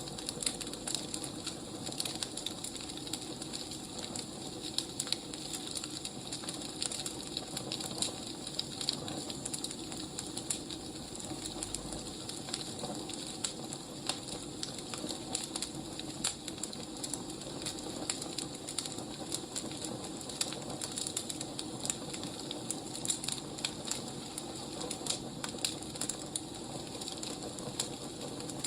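Wood fire crackling: a steady soft hiss dotted with many irregular snaps and pops from the burning logs.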